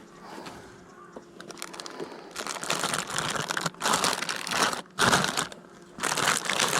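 Crinkling and rustling of packaging, such as a plastic or paper wrapper, being handled in several bursts that begin about two seconds in.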